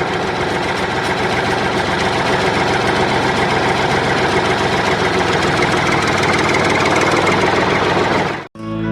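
Small diesel engine of a miniature water pump running at a steady idle with a rapid knock; it cuts off suddenly near the end.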